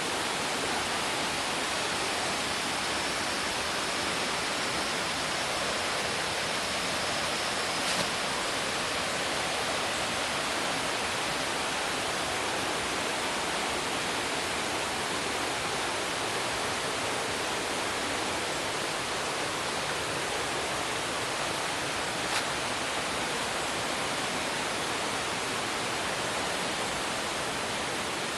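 Waterfall: water falling steadily, an even rush that does not change, with two brief faint clicks, one about a third of the way in and one about three-quarters of the way in.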